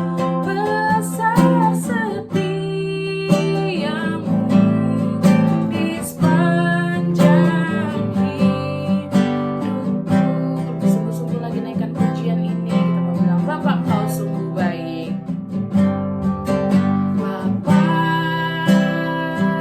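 Worship song music: an acoustic guitar strumming chords, with a melody line gliding over it.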